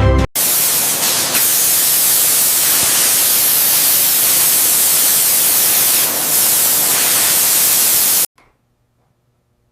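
Music breaks off and a loud, steady hiss starts at once, then cuts off suddenly about eight seconds in, leaving only a faint hum.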